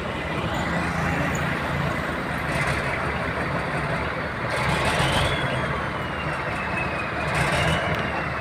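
Heavy diesel engine running steadily, with a faint high whine that rises and falls and three short hisses, about a third of the way in, around the middle and near the end.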